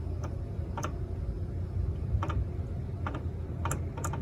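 Slow, uneven ticking from the rear axle of a 2016 Jeep Wrangler, about half a dozen sharp ticks over a low steady hum. The owner suspects the rear differential's spider gears may be getting worn or loose.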